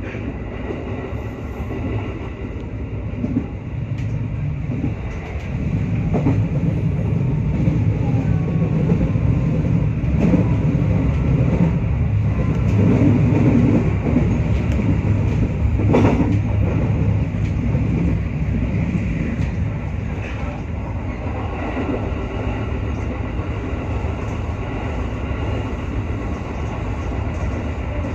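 JR West 221 series electric train running at speed, heard from inside the car: a steady low rumble of wheels on the rails with occasional clicks, growing louder for a stretch in the middle and then easing.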